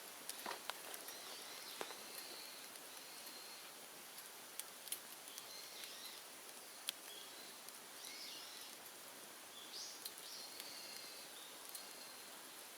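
Open fire of cut bamboo and brush crackling, with scattered sharp pops over a steady hiss. Small birds chirp now and then in the background.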